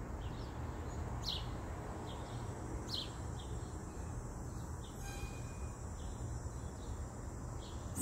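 Small bird's short, falling chirps repeated irregularly over a steady low outdoor rumble.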